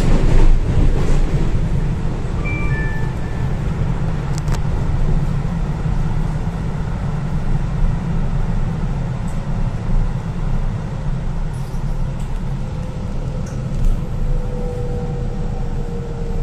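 Train running, a steady low rumble, with a short three-note descending chime about two and a half seconds in and a slowly falling whine near the end.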